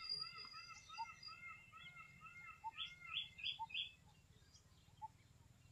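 Birds calling: one repeats a quick arched note about three times a second for the first two seconds, while others add short chirps and single notes, over a faint low background rumble.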